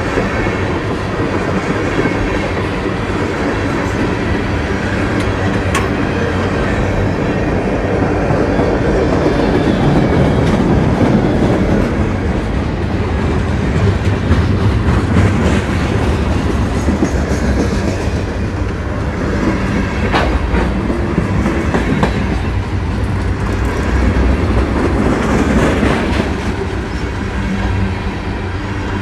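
Norfolk Southern freight train rolling past on the main line, a steady loud rumble of railcars with wheels clacking over the rail joints.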